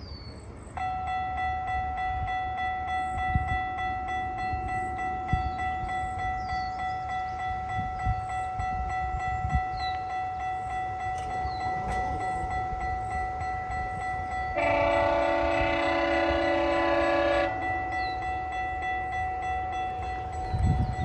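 GO Transit commuter train passing a level crossing: steady ringing of the crossing warning signal from about a second in, with the train's low rumble and wheel knocks. About two-thirds of the way through, the locomotive sounds a long horn blast of about three seconds, a horn salute.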